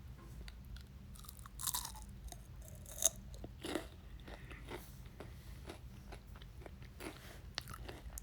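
A person chewing a mouthful of shrimp Alfredo close to the microphone: irregular wet mouth clicks and smacks, a few louder ones in the first four seconds.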